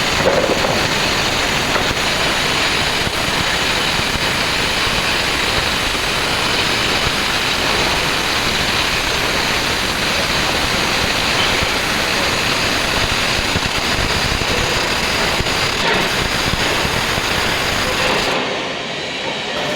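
Welding work: a steady, loud noise with no clear pitch, easing slightly near the end.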